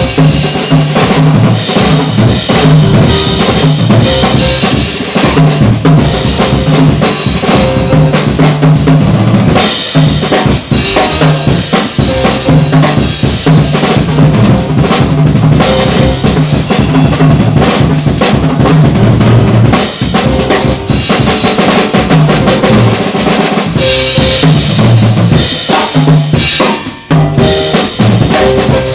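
Jazz drum kit played loudly in dense, continuous patterns of snare, bass drum and cymbals, with low pitched notes sounding underneath.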